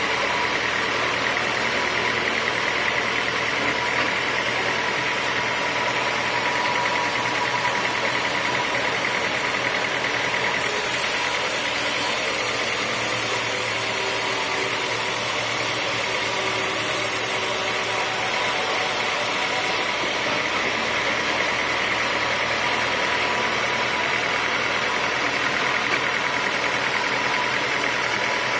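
Sawmill machinery running steadily through teak logs, with a constant mechanical hum. A high hiss joins in about ten seconds in and stops about nine seconds later.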